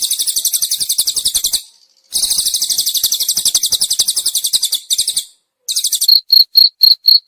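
Cililin bird singing long, rapid, high trills that break off and restart several times. Near the end a cricket takes over with a clear, even chirping of about four chirps a second.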